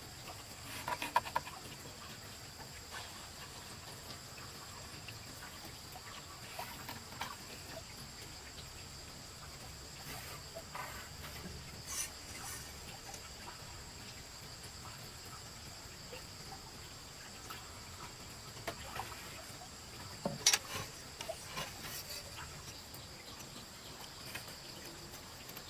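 Steady high-pitched insect drone, with scattered short knocks and clicks over it, the loudest about a second in and about twenty seconds in.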